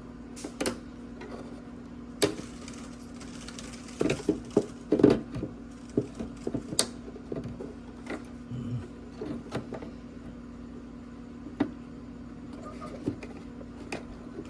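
Scattered sharp plastic clicks and knocks from prying and working a stubborn clip on a BMW F01 headlight housing, a cluster of them a few seconds in, over a steady low hum.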